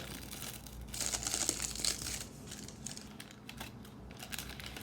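Crinkling and rustling as a 1992-93 Upper Deck basketball card pack and its cards are handled, with a denser burst of crinkling about a second in, then fainter scattered clicks of cards.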